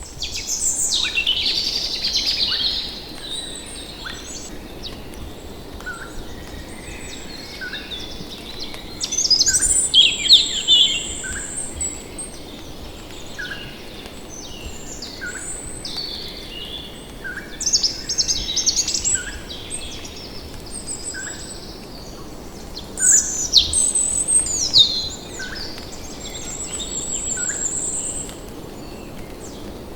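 Several tropical forest birds calling together: one bird repeats a short note about once a second throughout, while others break in with louder bursts of chirps, whistles and high trills. Steady forest hiss underneath.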